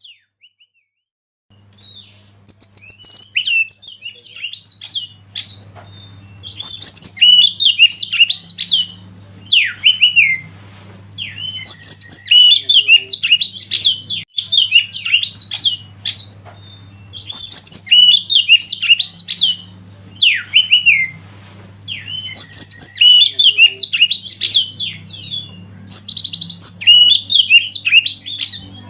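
Oriental magpie-robin (kacer) singing loud, fast, varied whistled phrases in repeated bouts a few seconds long, with short pauses between. A steady low hum runs underneath from about a second and a half in.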